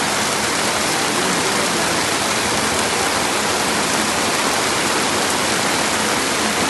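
Torrential rain pouring down, with muddy floodwater rushing along a street, a steady loud hiss of water.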